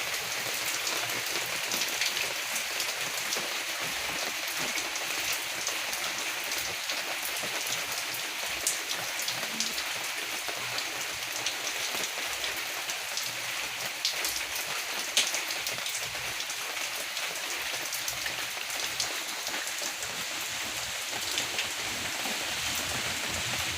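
Rain falling steadily: a constant hiss dotted with sharp ticks of single drops striking.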